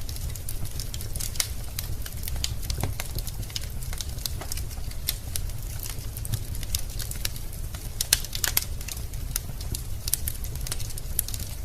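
Wood fire burning in a fireplace: frequent sharp, irregular crackles and pops from the logs over a steady low rumble.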